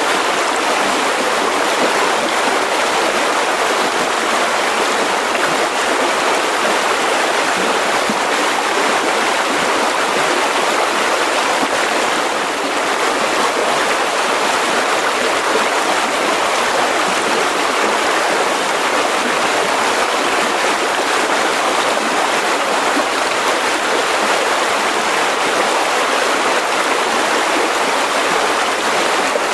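Mountain river rushing steadily over rocks: a constant, even rush of water.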